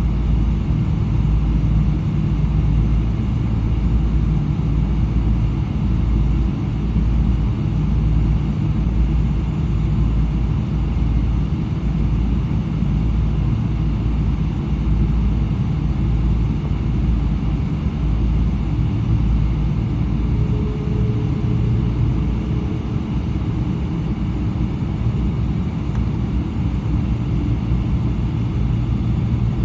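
Steady low rumble inside the cabin of a Boeing 777-300, heard from a window seat: its Rolls-Royce Trent 800 engines running, with faint steady tones above the rumble.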